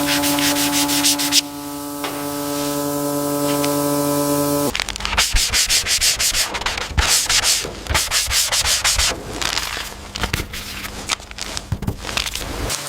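Sanding: abrasive rubbed back and forth over a surface in quick irregular strokes. For the first few seconds a steady hum with a rapid pulse runs under it, then stops abruptly.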